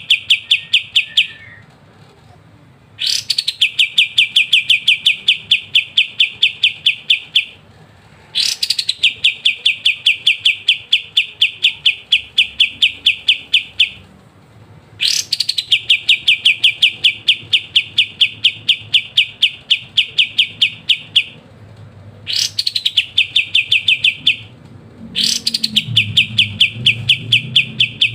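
Kapas tembak songbird singing its rapid, crisp trill in long bursts of several seconds. Each burst opens with a sharp rising note, then runs as quick, evenly repeated high notes, with short pauses between bursts. A faint low hum comes in near the end.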